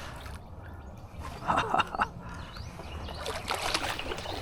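Water splashing and dripping at the side of a kayak, with a few sharp knocks about a second and a half in.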